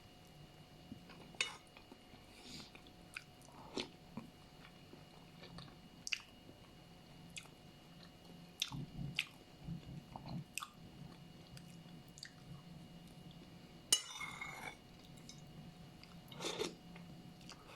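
A person chewing and biting food close to the microphone, with short sharp clicks at irregular intervals and a longer noisy bite about two-thirds of the way through.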